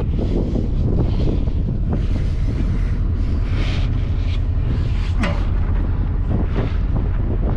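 Wind buffeting the microphone: a loud, steady low rumble, with scattered light knocks and rustles.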